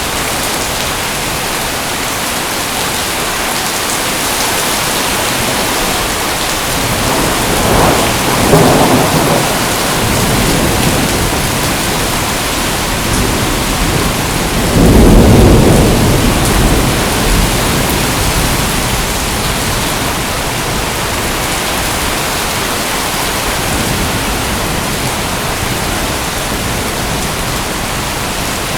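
Steady heavy rain falling, with two rolls of thunder rumbling through it: a shorter one about eight seconds in and a louder, deeper one about fifteen seconds in.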